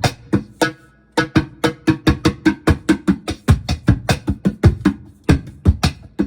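Laptop cajon played with the hands through a bass multi-effects pedal: a fast run of sharp drum hits, about four or five a second, with a short pause about a second in. The effect gives the low hits a deep, kick-drum-like thump with a slight ringing tone.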